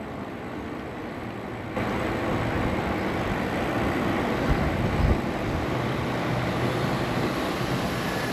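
Wind rushing and buffeting over the microphone while riding an e-bike along a paved path. It gets abruptly louder a little under two seconds in.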